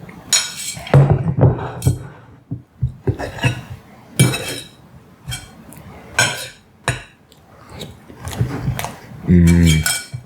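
Close-miked eating of pumpkin pie with whipped cream: a spoon clinks and scrapes on the plate in short strokes between mouthfuls. A short voiced "mm" comes near the end.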